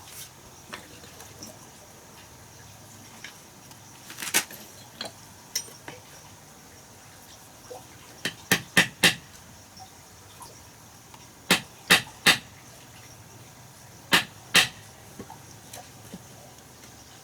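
Sharp, short knocks or clinks, scattered in small groups of two to four, over a faint steady hiss.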